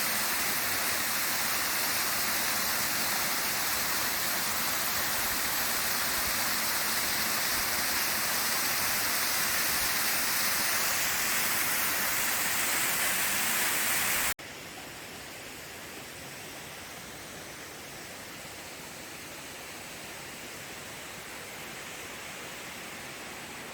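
Waterfall rushing with a steady, even roar of falling water. About 14 seconds in it cuts off abruptly to a much quieter steady hiss.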